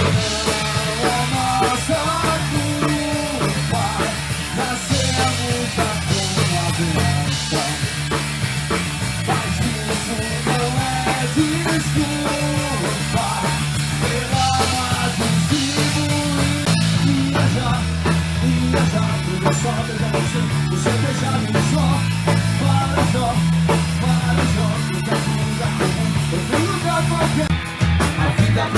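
Rock band playing: drum kit, bass and electric guitar carrying a steady beat and a melody.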